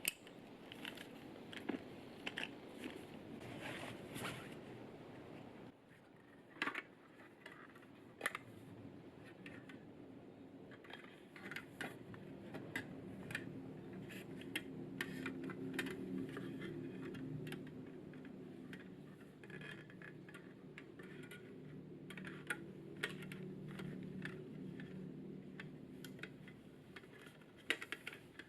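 Camping gear being handled and set up: scattered clicks, knocks and scrapes of small metal and plastic parts. A low steady hum rises and fades through the middle of the stretch.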